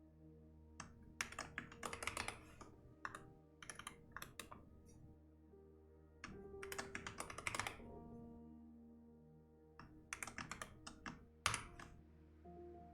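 Typing on a computer keyboard in four quick bursts of keystrokes with short pauses between, the last ending in one louder key stroke, over soft ambient background music.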